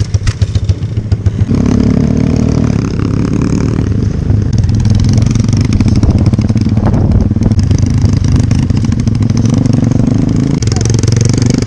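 Dirt bike engine running: uneven pulses for the first second and a half, then revved up to a steady, higher-pitched run that holds, with a shift in engine note near the end.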